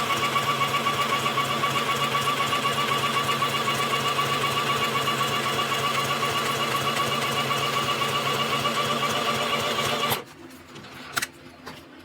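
Sew Simple K1127 domestic sewing machine running steadily, its needle stitching in an even rhythm, then stopping abruptly about ten seconds in. A single click follows about a second later.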